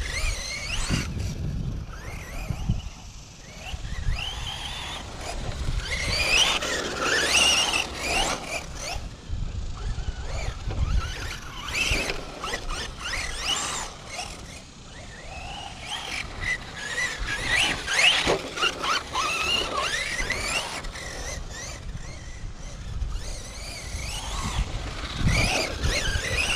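Electric motor and drivetrain of a Tekno ET48.3 RC truck whining up and down in pitch with throttle, again and again, over a low rumble and scattered knocks.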